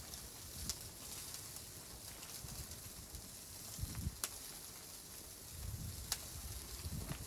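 Wood fire crackling in a stove: a steady hiss with a few sharp pops, and occasional low rumbles underneath.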